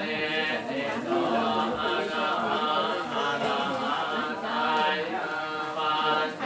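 Group of voices chanting Buddhist verses in unison, a continuous, evenly pitched recitation without pauses.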